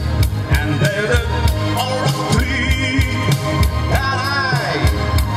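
A song performed by a male singer over a backing with a steady drum beat, with a long sliding sung note about four seconds in.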